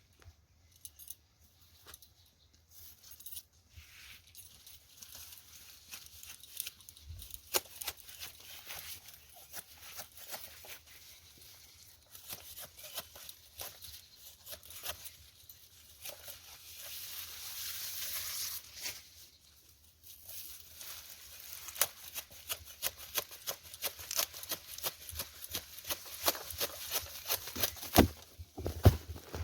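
Napier grass stalks being cut by hand with a blade close to the base: a run of sharp cutting strokes with leafy rustling. The strokes come faster and louder in the last third.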